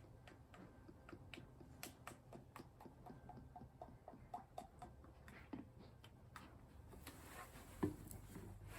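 Motor oil being poured from its bottle into a plastic graduated funnel: faint irregular clicks and small glugs, with a sharper knock near the end.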